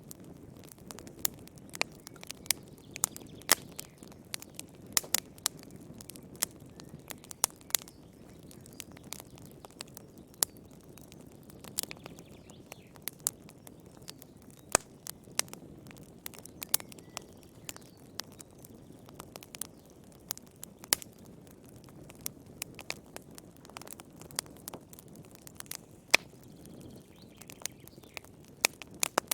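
Wood fire crackling: sharp, irregular pops and snaps, several a second, over a low steady hiss of burning.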